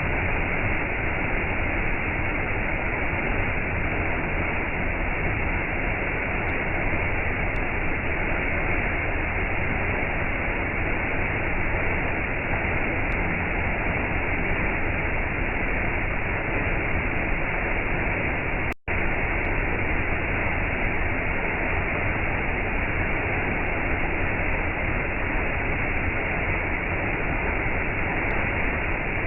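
Waterfall: a steady, unbroken rush of falling water, which cuts out for an instant about two-thirds of the way through.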